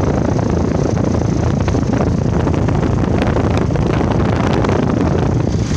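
Trane XR14 central air conditioner's outdoor unit running, a steady loud rush of condenser fan air over the hum of its scroll compressor, with a few faint ticks.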